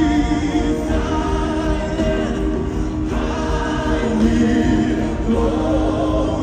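Gospel worship music: a choir of voices singing held notes over a steady instrumental backing.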